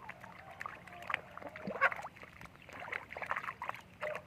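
Water splashing and sloshing in a run of short, irregular splashes.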